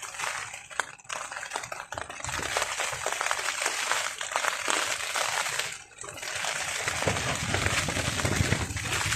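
Rain falling on a tarp overhead, a steady hiss dotted with many small drop ticks. It eases briefly near six seconds in, and a low rumble of wind gusts in over the last couple of seconds.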